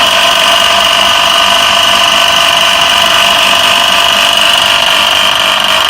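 Electric motor belt-driving a water pump, running with loud abnormal noise: a steady high-pitched whine over a running hum.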